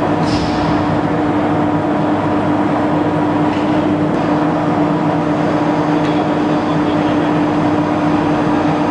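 Steady, loud industrial machinery drone with a constant electric hum, typical of a heavy-load turnover device's drives running. A brief high metallic clink comes a fraction of a second in, with fainter ones later.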